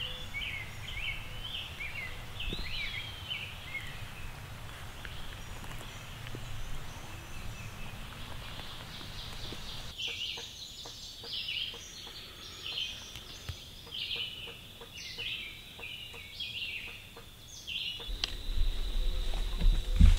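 Songbirds singing and chirping in spring woodland: many short, quick notes for the first few seconds, quieter for a while, then again over most of the second half. A low rumble comes in near the end.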